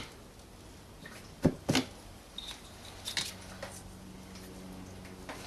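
A few sharp plastic clicks and knocks as the washer pump motors are worked out of a car's screen wash reservoir; the two loudest come close together about a second and a half in. A faint steady hum comes in about three seconds in.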